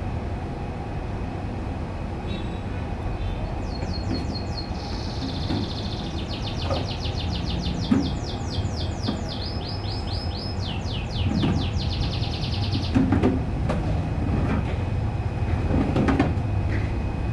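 Domestic canary singing rapid trilled phrases of quickly repeated high notes, from about two seconds in until about thirteen seconds, over a steady low rumble with a few short knocks.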